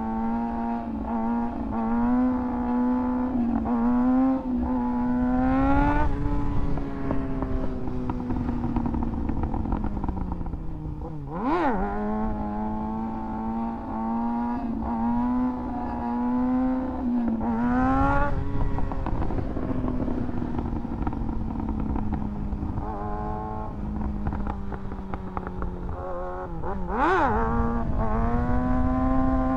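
Kawasaki ZX-6R's inline-four engine, through an aftermarket SC-Project exhaust, running under way. Its note climbs over the first few seconds, eases off slowly, and climbs again twice as the throttle is opened. There are two brief sweeping whooshes, about a third of the way in and near the end.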